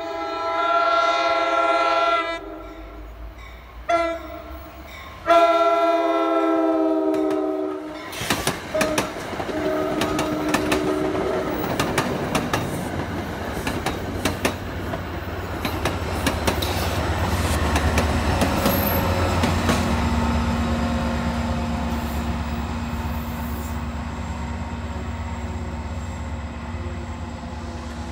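A New Jersey Transit commuter train's horn blows a long blast, a brief one and another long one as the train approaches. The train then runs past close by, with rapid wheel clicks over the rail joints, and the diesel locomotive pushing at the rear adds a steady low rumble and hum in the later part.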